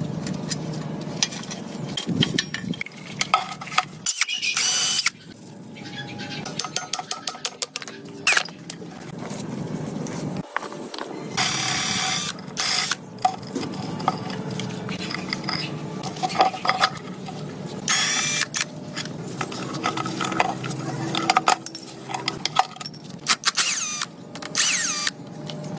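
Workshop tool work on metal motorcycle parts: many sharp clicks and clinks over a low steady hum, broken by several short bursts of hissing.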